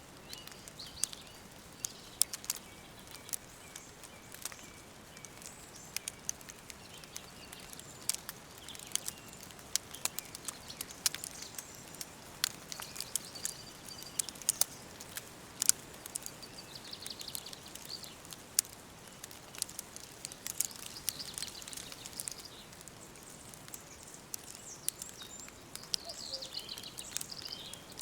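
Wood fire crackling with frequent, irregular sharp pops over a soft steady hiss, while small birds chirp now and then in short high calls.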